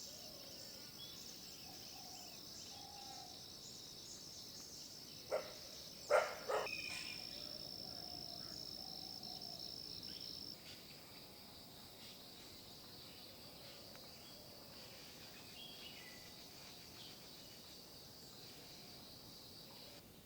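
Early-morning rural ambience: a steady high-pitched insect chorus with scattered faint bird calls. About five to seven seconds in come three sharp, loud sounds, and one strand of the insect buzz stops about ten seconds in.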